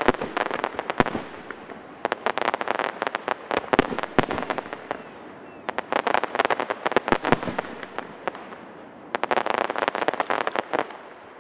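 Fireworks display: volleys of rapid crackling bangs, four bursts of a second or more each, with short lulls between.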